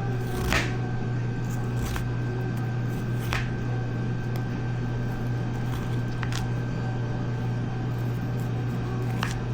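A steady low machine hum, with a few sharp light clicks or knocks scattered through it.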